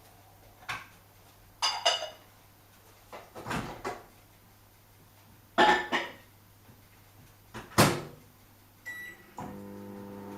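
Several separate knocks and clunks from a Whirlpool washing machine, then a single short beep. About a second before the end, the machine starts a steady hum.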